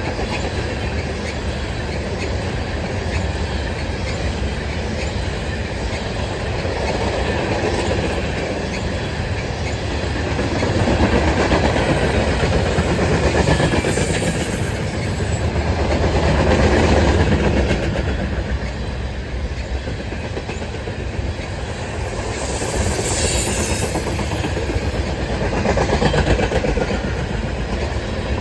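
Freight cars of a garbage train rolling past, their wheels rumbling and clattering on the rails. The sound swells and eases several times as the cars go by.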